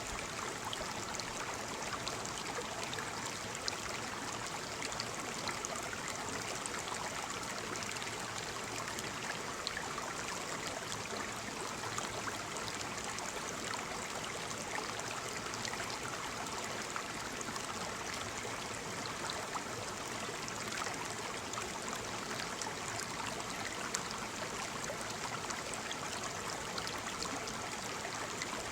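Waterfall: falling water splashing in a steady, even rush, with small splashes scattered through it.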